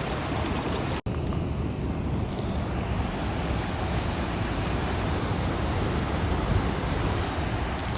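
Steady rushing roar of a waterfall, heavy in the low end, with the sound briefly cutting out about a second in.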